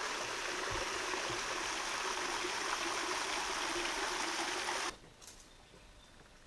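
Creek water running steadily, an even rushing noise that cuts off abruptly about five seconds in. Only a faint, quiet background follows.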